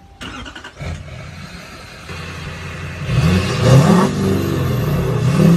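Truck engine starting and running, then revved hard several times from about three seconds in, the pitch climbing and dropping with each rev.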